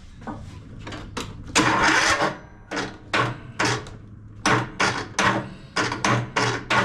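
Electric starter cranking a single-cylinder Kohler Courage 17 hp engine: a longer crank, then a run of short, uneven pulses as it turns over without starting.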